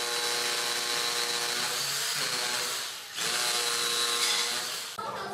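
Handheld electric power tool running with a steady motor whine, stopping briefly about three seconds in, then running again before cutting off near the end.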